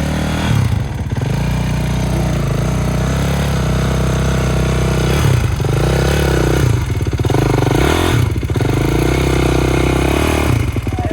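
Dirt bike engine revving hard under load, its revs rising and dropping several times.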